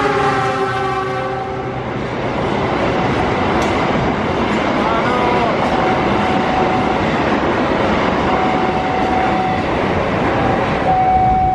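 A diesel locomotive's horn sounding and cutting off in the first second or two as the train passes close. Then a passenger train runs past at speed, its wheels rumbling and rattling on the rails, with a brief squeal about halfway through.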